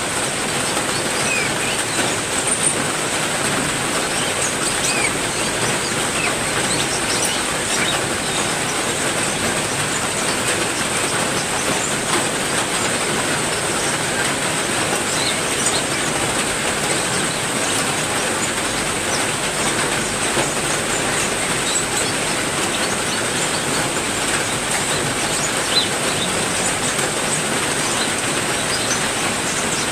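Heavy rain falling steadily, with a few faint, brief bird chirps scattered through it.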